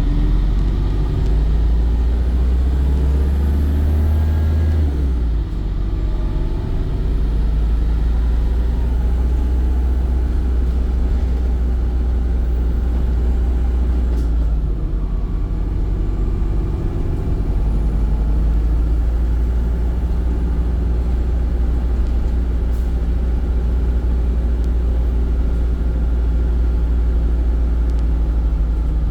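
Volvo B5 bus on the move, a steady low rumble with faint whines rising and falling above it; the low note shifts about five seconds in.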